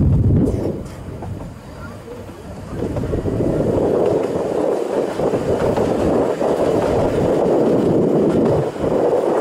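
2 ft gauge train running along the track, heard from an open-sided carriage: wheels and coaches rumbling, easing for a couple of seconds near the start, then a steady rushing run noise from about three seconds in.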